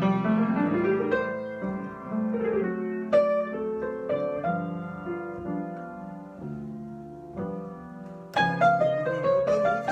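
Solo piano improvisation: sustained chords with a melody moving above them, and fuller, louder chords struck at the start and again about eight seconds in.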